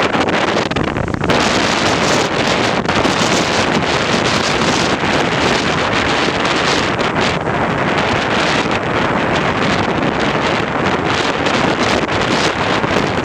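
Steady, loud rush of water from the Reykjafoss waterfall, an even unbroken noise.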